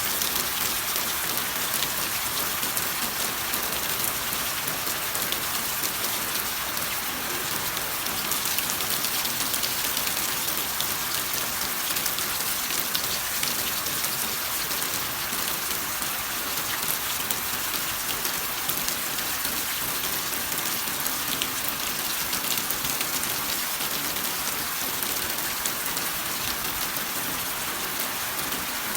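Steady rain falling: an even hiss with many sharp ticks of individual drops.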